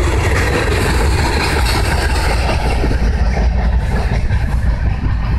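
Loaded rock hopper cars of a freight train rolling past on the rails: a steady, loud rumble and rattle of wheels on track, a little more uneven in the second half.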